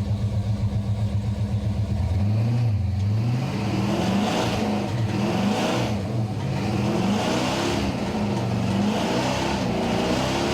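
Off-road truck engine running with a steady pulsing beat, then revving up and down over and over from about two seconds in.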